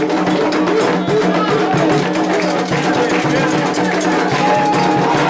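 Ritual music of a Candomblé festa for Yemanjá: several voices singing together over steady hand percussion with rattle-like strokes.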